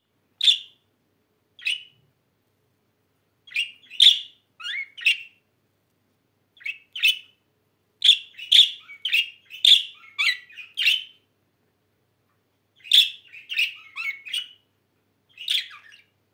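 Budgerigars chirping: short, high calls, some single and some in quick runs of three or four, a few dipping down in pitch at the end, with silent gaps between.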